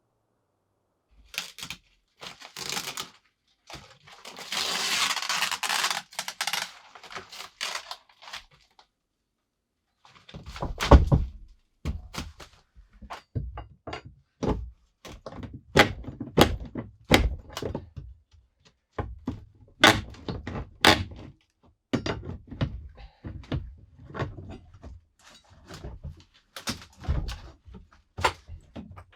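Irregular knocks and thuds of hands-on building work, many separate blows at uneven spacing, after a few seconds of scraping noise about four seconds in.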